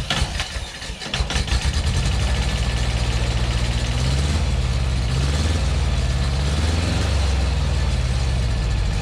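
John Deere 650 compact tractor's Yanmar three-cylinder diesel being started: the starter cranks briefly, the engine catches about a second and a half in, then runs steadily.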